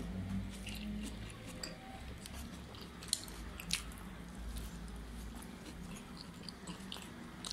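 Close-up chewing and biting of chicken shawarma wraps: soft wet mouth clicks, with a couple of sharper clicks about three seconds in, over a low steady hum.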